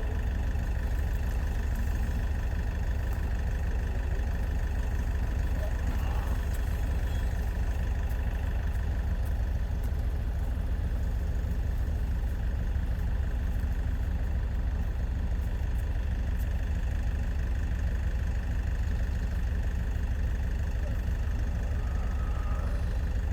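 An engine idling steadily with a constant low rumble, unchanging throughout.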